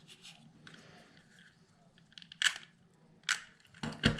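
Cardstock die-cut pieces being handled and pressed onto a scrapbook page: faint rustling, then sharp paper crackles about two and three seconds in and a louder pair near the end with a dull thump.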